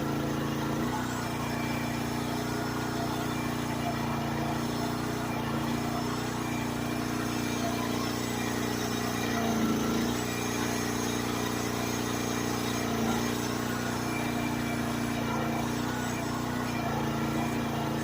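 Small engine of a Chinese mini excavator running steadily while it works dirt with a grading bar, its note shifting now and then as the hydraulics take load, most clearly about halfway through.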